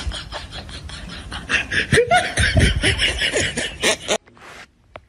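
A person laughing in quick, breathy bursts, loudest in the middle, then cutting off suddenly about four seconds in.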